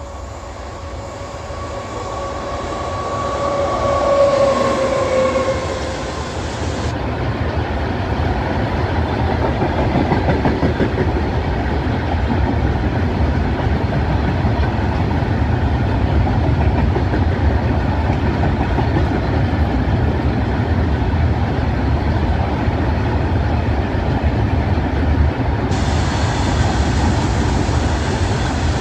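WAG-9 electric freight locomotive passing close by. For the first few seconds it gives a held two-note tone that drops in pitch as it goes past. It is followed by a long rake of open box wagons rolling past with a steady rumble and wheel clatter.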